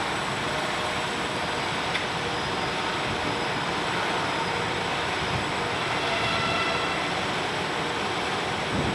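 Machine tool running in a workshop: a steady mechanical noise with a thin high whine, and faint higher tones coming in about six seconds in.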